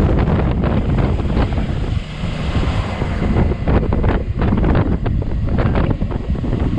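Wind buffeting the microphone of a riding motorcycle: a loud, gusting low rumble that drowns out any engine note.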